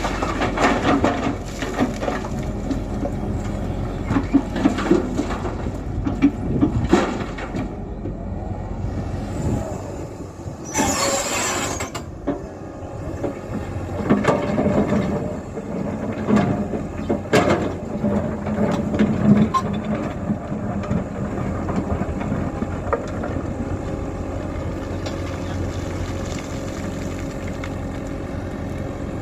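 Tata Hitachi EX120 tracked excavator working as it loads a truck: its diesel engine runs steadily under load, with repeated clanks and knocks, and a short hiss about eleven seconds in.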